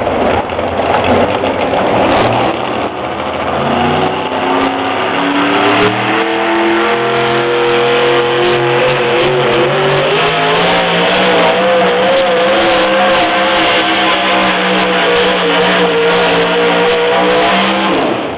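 Pickup truck engine at full throttle pulling a weighted sled down a pull track: the revs climb over the first several seconds, then hold high and steady, and the engine drops off right at the end.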